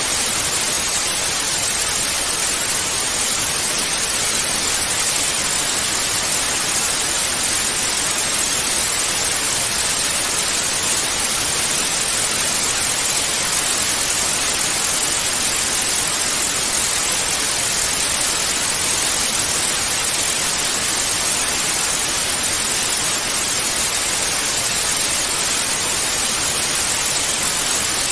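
Analogue TV static: a steady, even hiss of white noise, brightest in the treble, with no change throughout.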